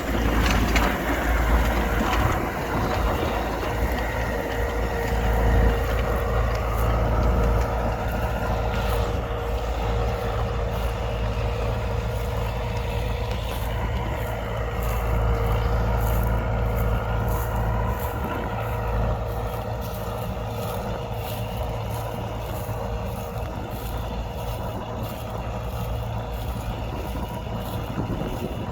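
U650 tractor's four-cylinder diesel engine running steadily under load while pulling a plough.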